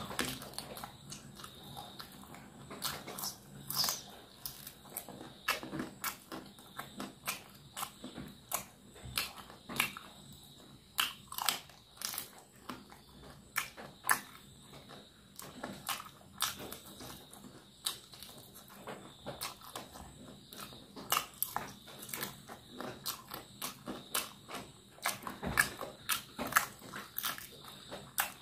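A person biting and chewing fried chicken feet and leg pieces with the mouth open, close-miked: sharp, irregular clicks and smacks, several a second.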